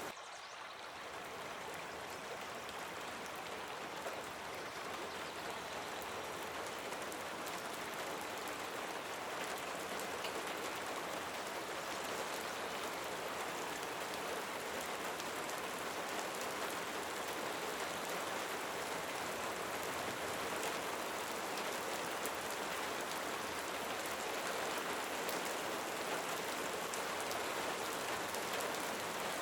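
Steady rain falling, with a dense patter of individual drops; it gradually grows a little louder.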